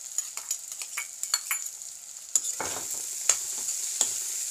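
Cubed radish and potato sizzling in hot oil and spice masala in a kadai while a steel spatula stirs them. Light scattered clicks at first, then about two and a half seconds in the sizzle grows louder, with sharp knocks of the spatula against the pan.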